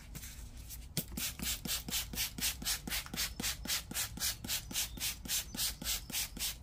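Quick back-and-forth rubbing on a plastic car headlight lens, about three to four strokes a second, starting about a second in.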